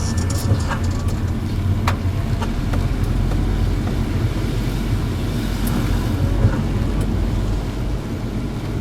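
Car cabin noise while driving: a steady low rumble of engine and road, with a few light clicks.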